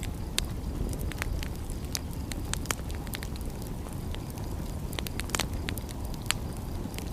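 Wood fire crackling, with sharp irregular pops, a few louder than the rest, over a steady low rumble.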